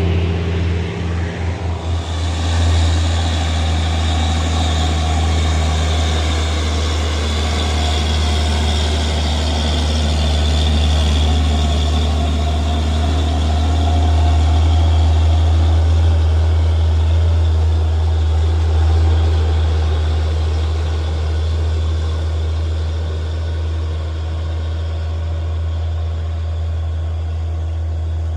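Heavy truck's diesel engine running steadily with a deep, low drone, pulsing unevenly for the first couple of seconds before settling into a continuous hum.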